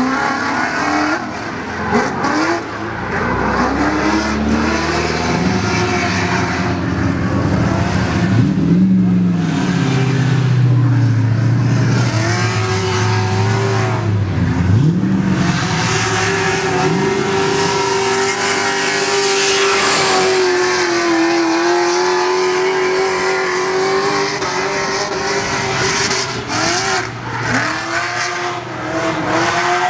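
Drift cars on track, engines revving up and down in pitch with tyre squeal over the top, and a long held engine note through the middle stretch.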